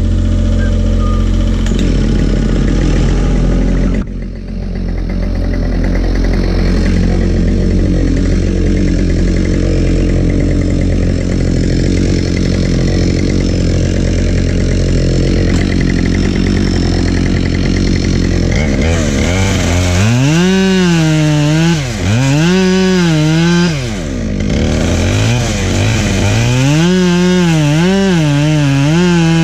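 Husqvarna 572XP two-stroke chainsaw running and cutting firewood; in the second half its pitch repeatedly drops under load and climbs back as it revs. A steady low engine drone sits underneath.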